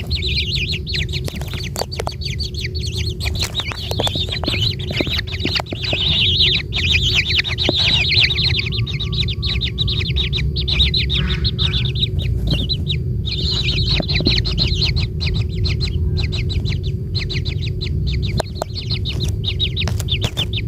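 Javan kingfisher calling: a long, rapid series of short, high, downward-sweeping notes with a few brief breaks, over a steady low rumble.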